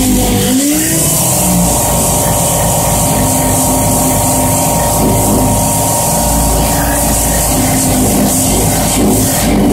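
An engine running steadily after a short pitch glide in the first second.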